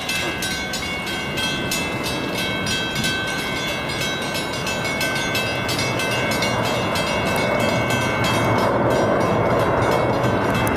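Train approaching and growing louder over the second half. Throughout, a rapid, regular clicking with steady high ringing tones runs over it.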